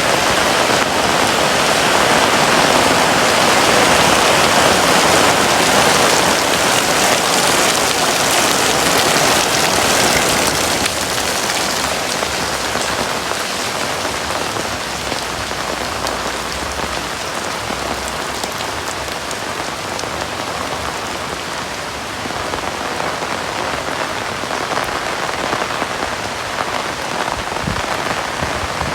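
Heavy rain falling in a steady, dense hiss, easing slightly about a third of the way in.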